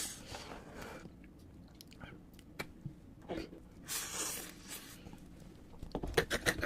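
A person chewing and biting crunchy food close to the microphone, with scattered crisp crunches and then a quick run of them near the end.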